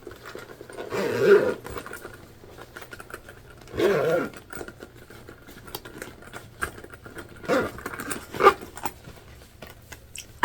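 A vinyl bag being handled and zipped closed, with faint scattered clicks and rustling, broken by four short voice-like hums or grunts that bend in pitch.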